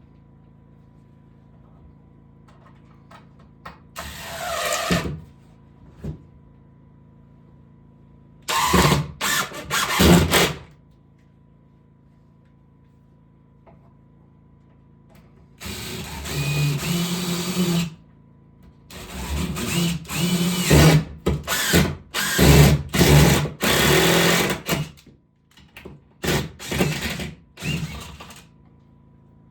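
Power drill running in about five bursts of one to several seconds, with pauses between them; its motor pitch climbs as it speeds up during the longer runs.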